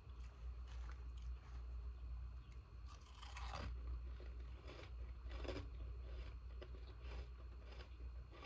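Ice being bitten and chewed close to the microphone, in irregular crunches, the loudest about three seconds in and another about halfway through. A steady low hum runs underneath.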